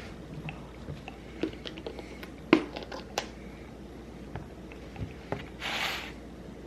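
Kitchen handling sounds during food preparation: scattered light clicks and knocks, the sharpest about two and a half seconds in, then a brief rustling sound near the end.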